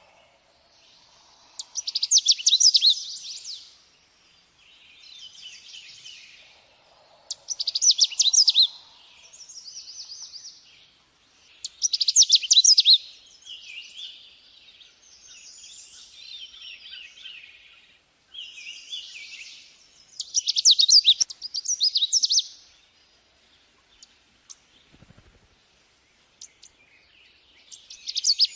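Small songbird singing: loud, rapid trilled phrases repeated about every four to six seconds, with softer twittering in between.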